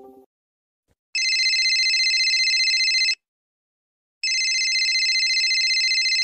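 A telephone ringing: two rings of about two seconds each, a second apart, each with a fast trilling flutter.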